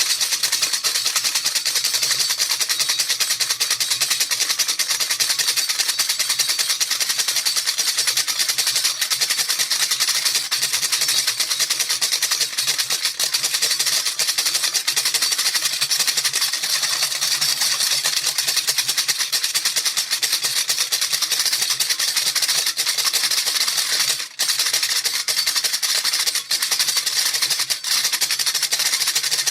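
A rattle, maraca-type, shaken rapidly and without pause, giving a dense, bright stream of bead or seed rattling. The rattling breaks off for an instant about 24 seconds in, then resumes.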